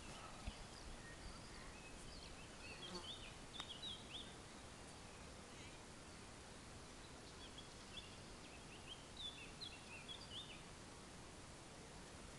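Faint birdsong in two spells of short, quick chirps over a steady outdoor background hiss.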